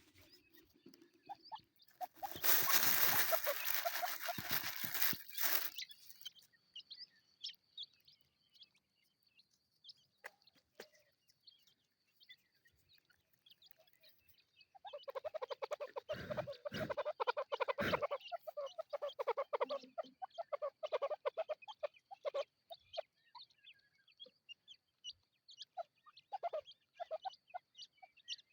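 Partridges and their chicks calling: faint high chirps throughout, and a long run of rapid clucking calls in the middle. A loud burst of rustling noise comes a couple of seconds in.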